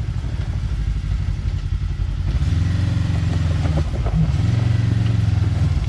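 Off-road side-by-side UTV engine running at low speed, with pushes of throttle about two seconds in and again about four seconds in.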